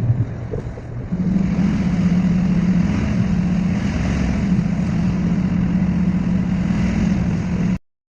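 Engine and road noise heard from inside a moving city bus: a steady low drone that gets louder about a second in, then cuts off suddenly near the end.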